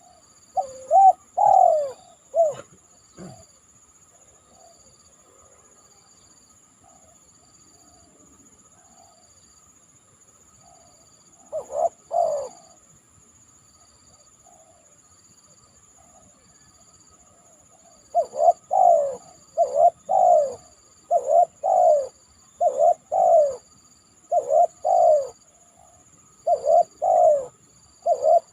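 Spotted dove cooing: a burst of low falling coo notes at the start, another phrase about halfway, then repeated coo phrases about every second and a half through the last third. A steady high insect drone with a faint pulsing chirp runs underneath.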